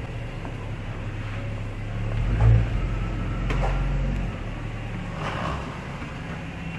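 A long-stored Jaguar XJ6 (XJ40) straight-six engine running at low revs as the car creeps forward. The engine note swells twice, around two and a half seconds in and again between three and four seconds, then eases back.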